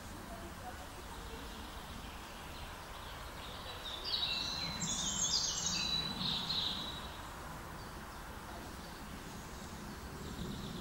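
A songbird sings a short run of quick, high chirping phrases about four seconds in, over a steady low background hiss.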